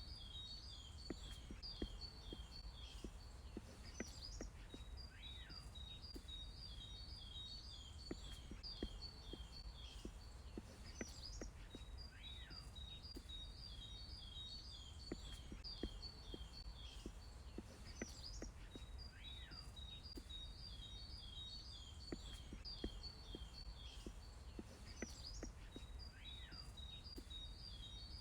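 Small songbirds chirping faintly in fast runs of short, high notes. A lower, falling call comes back every six or seven seconds, over a low steady outdoor rumble.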